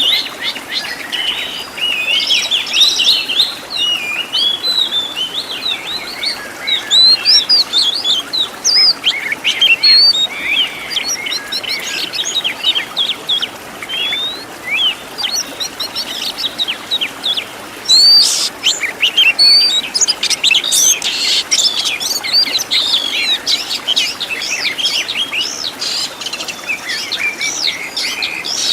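Oriental magpie-robin (kacer) singing a dense, unbroken song of quick rising and falling whistles, trills and sharp chips, packed with phrases mimicked from other birds; a burst of very sharp, high notes comes about two-thirds of the way through.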